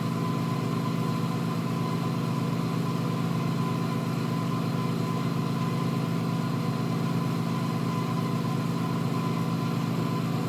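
Electric motor-driven shop machinery running steadily with a low, even hum and a faint high whine.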